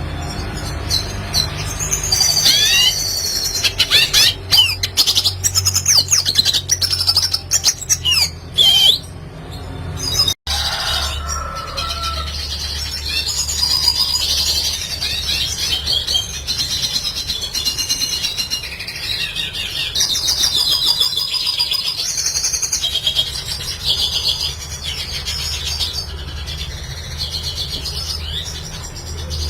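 Red siskin singing: a fast, continuous twittering of chirps, trills and quick rising and falling whistles. The sound drops out for an instant about ten seconds in, then the song carries on over a low steady hum.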